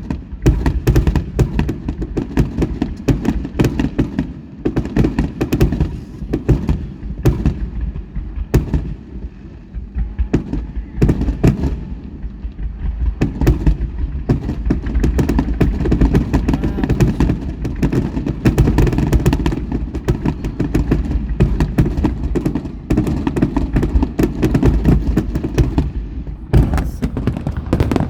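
Aerial fireworks going off in a rapid, continuous barrage: many sharp bangs and cracks overlapping one another over a deep rumble, barely easing at any point.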